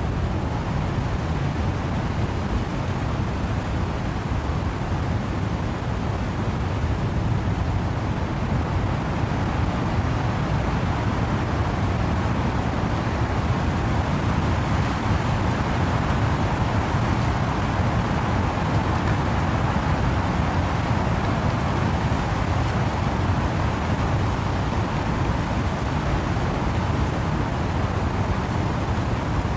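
Wind and rain in trees: a steady rushing noise with a deep rumble underneath, swelling a little around the middle.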